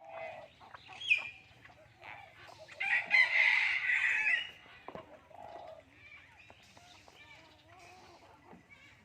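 Common hill myna calling with short squawks and whistles, the loudest a long, strained crow like a rooster's from about three seconds in.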